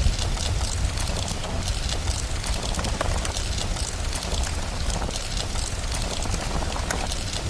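Rain and thunderstorm ambience mixed with a crackling fireplace. Steady rain hiss sits over a continuous low rumble, with many small, irregular fire crackles throughout.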